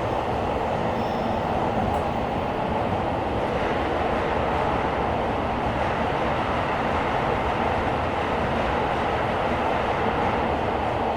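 Tokyo Metro 17000 series subway train running between stations in the tunnel, heard from inside the car: a steady rumble and rail noise with no marked change in pitch.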